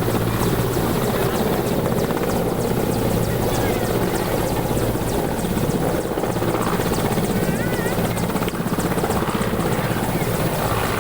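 Helicopter landing: its rotor and turbine run loud and steady, with a rapid, even blade chop.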